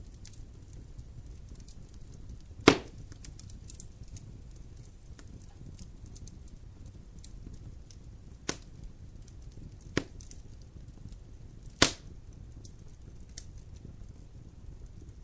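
Wood fire in a fireplace crackling over a low steady rumble, with four sharp pops of burning wood, the loudest about three seconds in and near the end.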